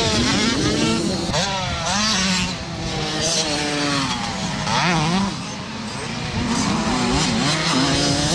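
Several motocross bikes' engines racing, each revving up and falling back in pitch again and again as the riders open and close the throttle, with the sounds overlapping.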